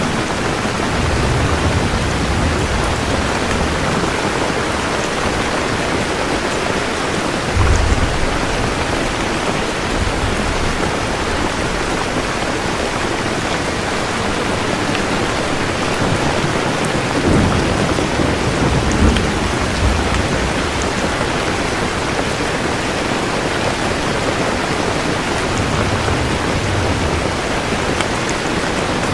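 Steady heavy rain falling, with low rolls of thunder rumbling several times, the strongest about a third of the way in and again just past the middle.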